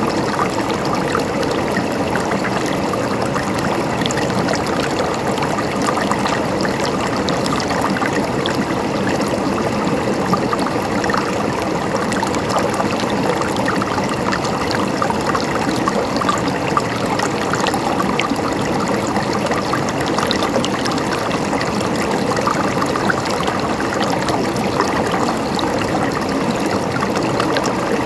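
Flowing water gurgling steadily, with a dense patter of small splashes and trickles.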